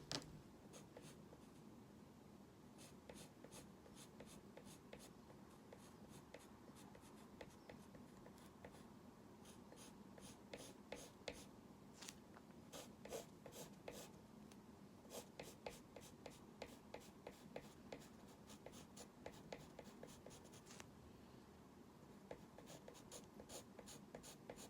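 Faint drawing strokes: a pen or pencil ticking and scratching on the drawing surface in quick clusters of short strokes, with short pauses between them.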